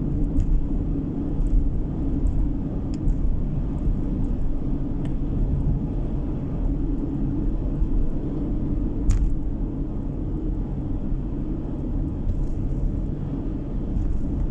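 Steady engine and road rumble of a car driving, heard from inside the cabin, with a few faint clicks, the sharpest about nine seconds in.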